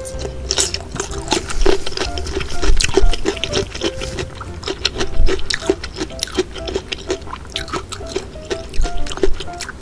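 Rapid, irregular wet clicking and squishing of food, over light background music with a simple tune.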